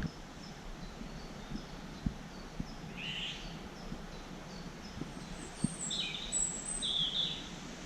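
Eurasian golden oriole giving its rasping call three times, about three, six and seven seconds in. The call is here from a male, though it is usually taken for the female's call. Faint short high chirps of a small bird run through the background.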